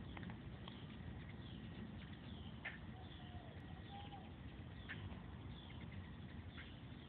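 Small birds chirping: short sharp chips and brief falling high notes every second or so, with a couple of lower glides in the middle, over a steady low background hum.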